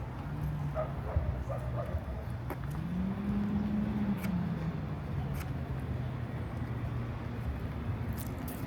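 Street noise with a vehicle engine running low. Its pitch rises about three seconds in and settles back down, and a few short, high chirps sound near the start.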